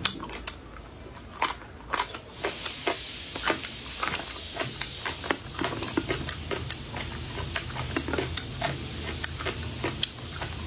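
Close-miked eating of crisp shredded papaya: a string of short, crunchy chewing clicks and wet mouth smacks, a few each second. A low steady hum joins in about halfway through.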